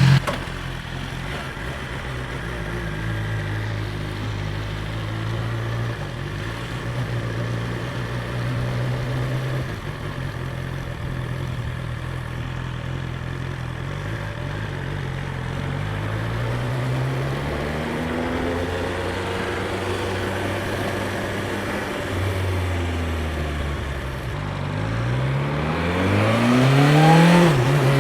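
BMW S 1000 XR's inline-four engine through its stock exhaust: a steady low note for the first half, then rising pitch as it accelerates, with the hardest and loudest climb near the end.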